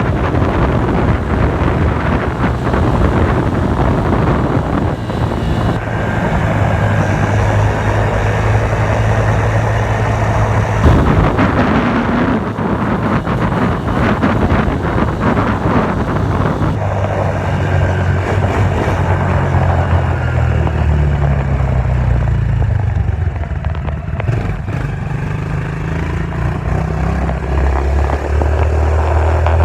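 Dirt bike engine running as it is ridden, its revs rising and falling, over a steady rushing noise.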